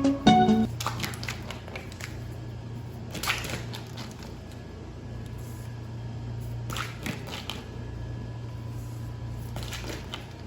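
A steady low hum with a few faint rustling and tapping sounds scattered through it. The end of background music is heard at the very start.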